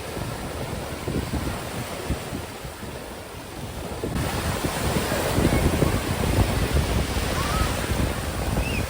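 Sea surf washing onto the beach, with wind buffeting the microphone in low rumbles. The sound gets louder and fuller about four seconds in.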